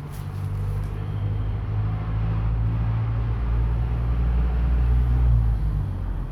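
Tekken Discovery 300 motorcycle engine running, growing louder up to about five seconds in, then dropping back.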